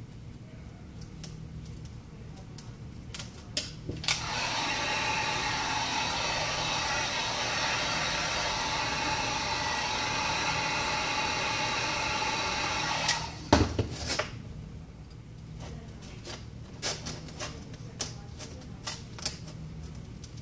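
Electric heat gun running steadily for about nine seconds, its fan blowing, softening the adhesive under the cracked glass. It switches off abruptly with a couple of sharp knocks, followed by scattered small clicks and taps of work on the device.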